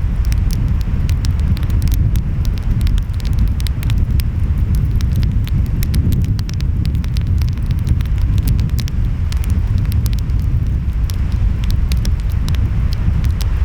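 Wood fire crackling with many sharp pops, over a steady low rumble of wind and waves.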